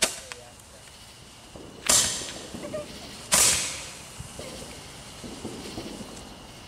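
Fireworks going off: three sharp bangs about a second and a half apart, each echoing briefly, with faint crackling between.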